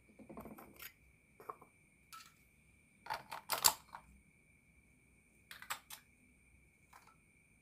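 Light clicks and taps of plastic toy kitchen pieces being handled: a plastic ice-cream scoop knocking against toy ice-cream balls and a tray. The taps come in a few short clusters, the loudest a little past halfway.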